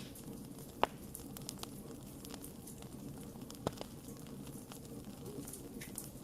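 Campfire crackling: a steady low hiss of burning with scattered small ticks and two sharp pops, the loudest about a second in and another a little before four seconds.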